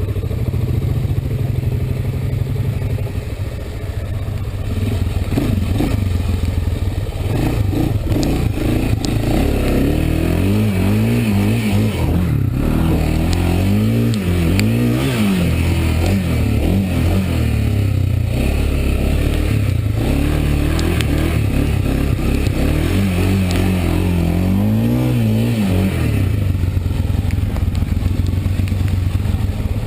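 Honda ATV's single-cylinder four-stroke engine running while riding a flooded trail. It revs up and down several times through the middle and again near the end.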